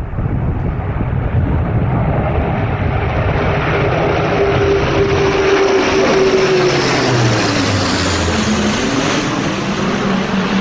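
Low-flying airplane approaching and passing close overhead: its engine tone holds steady, then drops in pitch about seven seconds in as it goes by, with the rushing noise loudest just as it passes.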